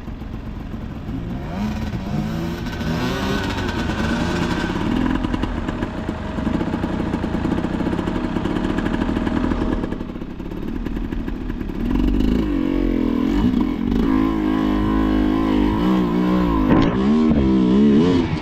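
Enduro motorcycle engine revving up and down as the throttle is worked over and over, louder and closer from about two-thirds of the way in.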